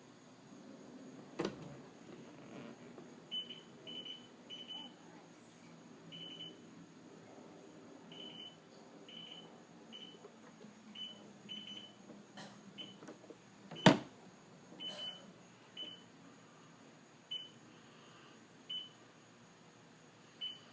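STX15 tractor's warning beeper giving short, high beeps at irregular intervals while the battery is disconnected and the ignition is off, which the owner takes as a sign of a bad voltage regulator. A sharp knock sounds early on and a louder one about two-thirds of the way through.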